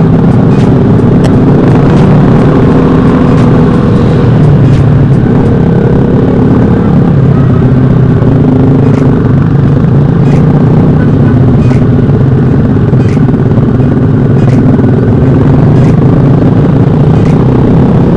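Motorcycle engine with a loud aftermarket exhaust running steadily and very loud, close to the microphone, with no big revs.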